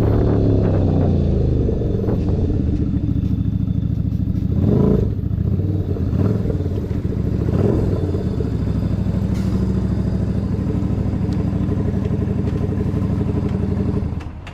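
Keeway SCR 250's V-twin engine running through a Racefit free-flow exhaust. The revs fall away just after the start, rise briefly twice with short throttle blips, and otherwise settle into steady low running; the sound drops off suddenly near the end.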